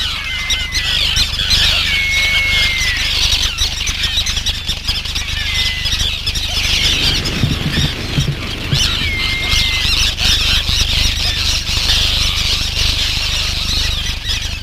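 A large tern nesting colony calling: many overlapping harsh, high calls in a continuous din, with a few short falling whistled notes standing out.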